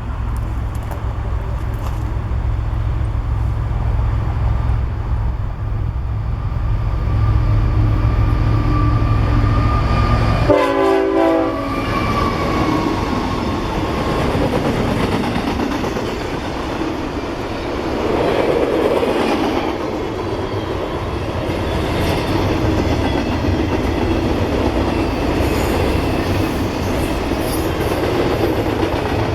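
A train passing close by: a heavy diesel locomotive rumble for the first ten seconds, a short horn sound about ten seconds in, then the cars rolling past with wheels clacking over the rail joints.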